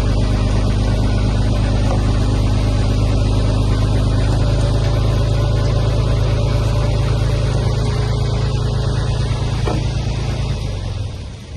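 Heavy earthmoving machine's diesel engine running steadily with a deep low hum, fading out near the end.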